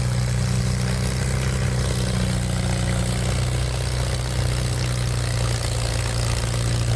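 An antique farm tractor engine running steadily at an even pitch, a deep, constant drone with no revving.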